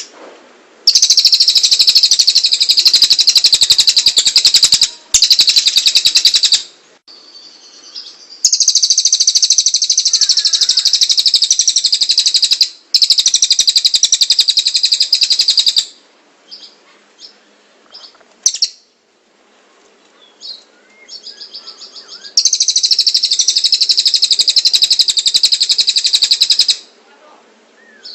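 Tengek cililin, a small songbird, singing long, loud, rapid high-pitched trills in four bouts of several seconds each, with short chips and calls between them.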